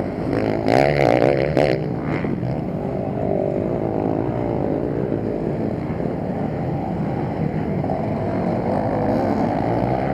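Motocross motorcycle engines running on the track, their pitch rising and falling as the riders work the throttle. One bike revs hard and loud for about a second and a half near the start.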